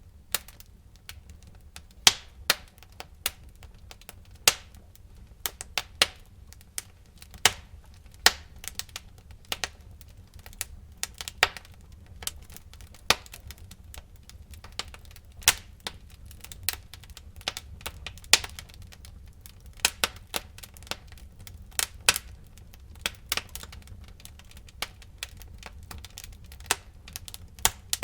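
Burning wood crackling and popping in a fireplace: irregular sharp snaps, several loud pops a second at times, over a low steady rumble of the fire.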